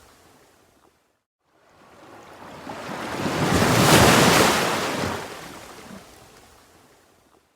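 Ocean surf: the last of one wave fades out, then after a moment of near silence the next wave swells in, peaks about halfway through and washes out until it dies away.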